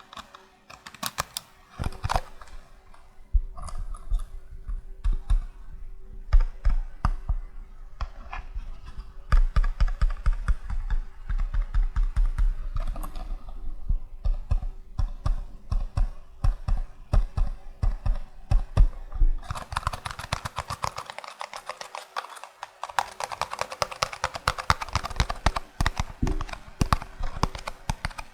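Fingertips tapping rapidly on a small cardboard cream box, in quick irregular runs of light taps. About two thirds of the way in the tapping becomes denser and more continuous.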